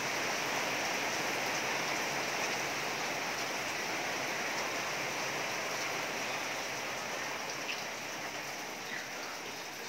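Heavy rain pouring down steadily, an even hiss that grows a little quieter over the last few seconds.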